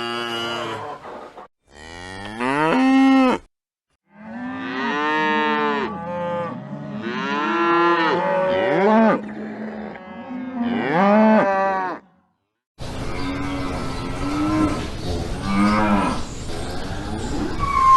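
Cattle mooing: a run of separate moos, some rising in pitch. They come in short clips that cut off abruptly, with brief silent gaps between them.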